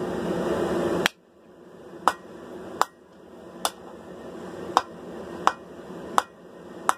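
Hand hammer striking hot leaf-spring steel on an anvil, forging the point of a sword blade: about eight sharp ringing blows, less than a second apart, starting about a second in.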